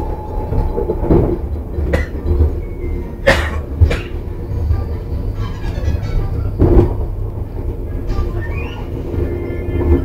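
Moving electric airport train heard from inside the carriage: a steady low rumble with a few sharp knocks, the loudest pair about three and a half seconds in and another near seven seconds.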